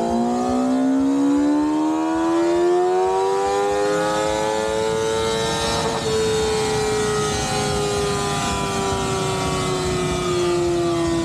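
Superbike engine on a chassis dyno: one long full-throttle pull, its pitch rising steadily for about six seconds, then falling slowly as the throttle closes and the roller coasts down.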